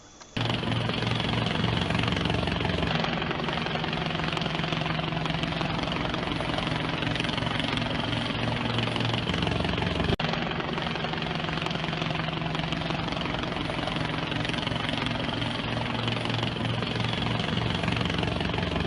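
Aircraft engine running steadily, with a low, even hum under a broad mechanical noise; it starts suddenly and drops out for an instant about halfway through.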